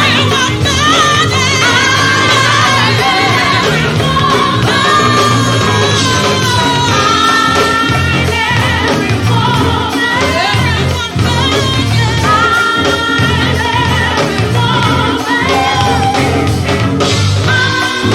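Live go-go band playing, with sung vocals over a steady bass and drum groove.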